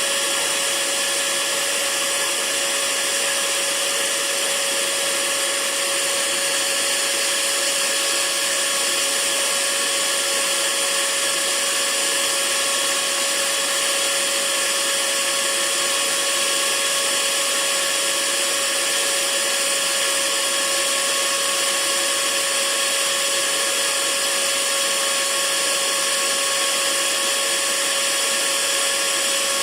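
Hair dryer running steadily: a constant rush of air with a steady motor whine underneath, used as white noise.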